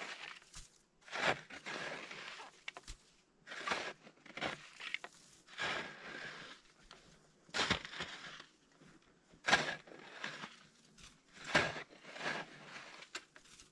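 Deep snow being scooped and scraped away with a ski used as a shovel: a crunching stroke roughly every two seconds.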